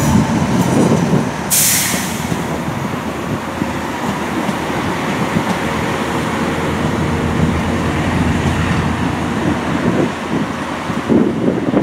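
Diesel passenger train running at a station platform, its engine rumbling steadily, with a short sharp hiss of air released about a second and a half in.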